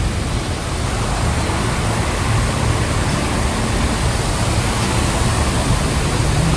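Steady rushing of a fast mountain stream, a constant even roar of water.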